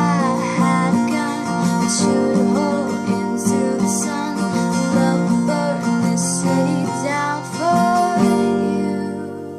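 Acoustic guitar strumming the closing chords of a song, then ringing out and fading near the end.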